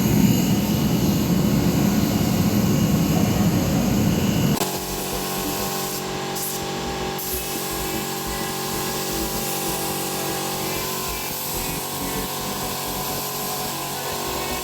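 Workshop power-tool or air-tool noise, running steadily, that changes abruptly about four and a half seconds in to a quieter, steady machine hum.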